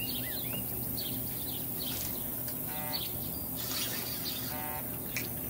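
Birds chirping, with many short quick chirps and two longer, lower calls about three and about four and a half seconds in.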